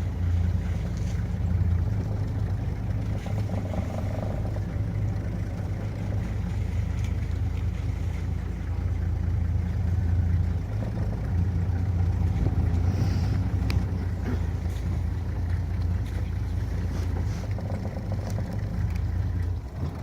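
A vehicle's engine running steadily with a low drone, cutting off abruptly at the end.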